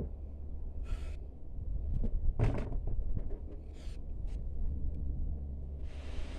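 A few short scraping rustles of soil and potatoes being handled as a potato tub is emptied, the loudest about two and a half seconds in, over a steady low wind rumble on the microphone. A windy hiss comes up near the end.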